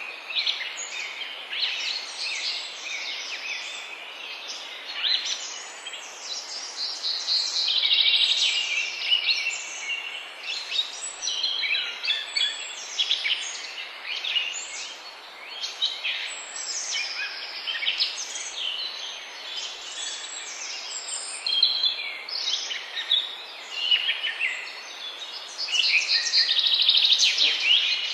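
Several songbirds singing over one another in a dense, continuous chorus of quick chirping phrases, over a steady low hiss.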